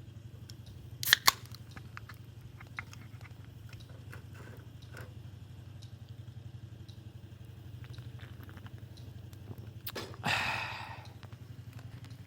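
Someone chewing and biting into a hamburger, with a few sharp clicks and a short crunching rustle about ten seconds in, over a steady low hum.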